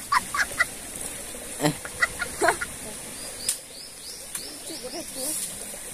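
A bird calling: a quick run of about six short, high notes, each rising and falling, after a few scattered clicks.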